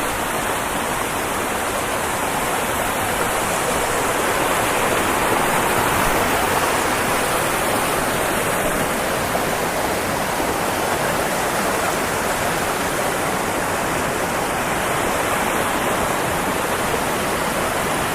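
Loud, steady rush of a waterfall, swelling a little about five seconds in and easing again.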